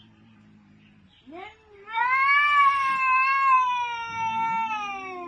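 A cat yowling: a short rising cry, then one long drawn-out caterwaul that slowly falls in pitch.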